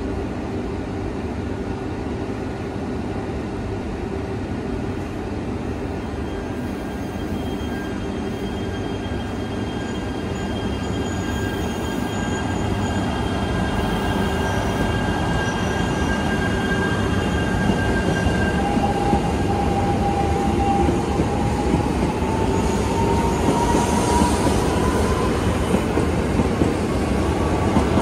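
Yamagata Shinkansen Tsubasa train departing and running past. The running noise of the cars builds steadily as it gathers speed. Over the last several seconds an electric motor whine rises in pitch as the train accelerates.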